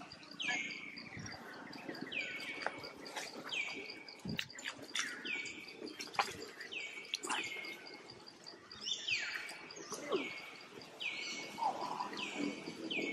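A bird repeating a short, clear, downward-sliding whistled call about once a second, over a faint steady high-pitched pulsing.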